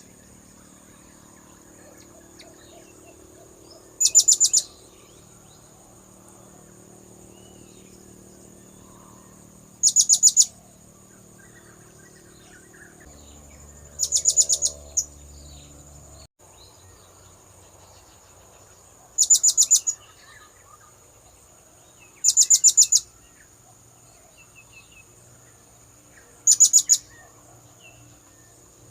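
Blue-crowned hanging parrot (serindit) lure call: six short bursts of rapid, very high-pitched notes, repeated every few seconds.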